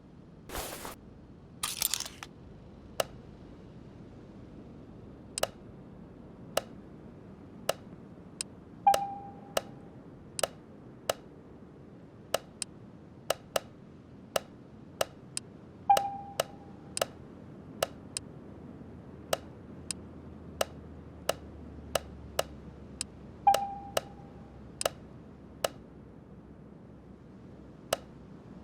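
A series of sharp clicks, roughly one a second and unevenly spaced. Three of them, about nine, sixteen and twenty-three seconds in, are followed by a brief ringing tone.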